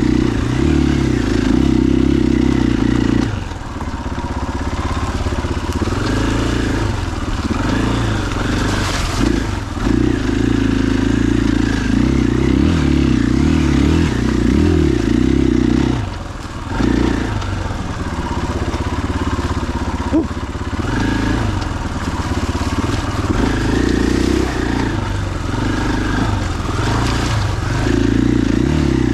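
2021 KTM 500 EXC-F's single-cylinder four-stroke engine running under way on a dirt trail, revving up and down as the throttle opens and closes, with short drops in engine sound about 3 s and 16 s in.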